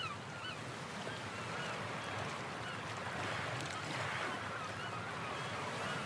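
A bird chirping repeatedly, faintly, over steady background hiss, the chirps thinning out after the first second.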